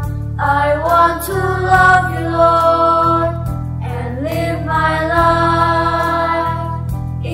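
Mixed choir singing a worship song in long held chords over a steady low accompaniment, the chord changing every second or so.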